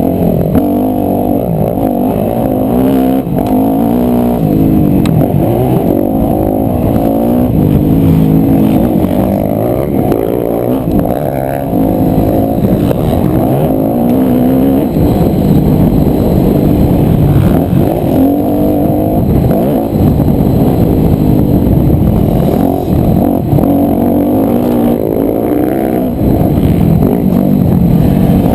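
Yamaha YZ250F four-stroke single-cylinder motocross bike ridden hard on track, the engine revving up and dropping back again and again through the gears. The sound is muffled, with almost nothing in the high range.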